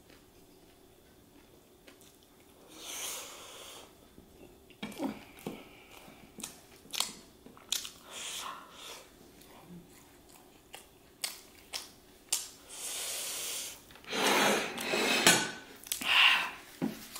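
Close-up mouth sounds of a person chewing roasted chicken leg meat: a string of short, wet, sharp clicks and smacks, with a louder noisy stretch for a couple of seconds near the end.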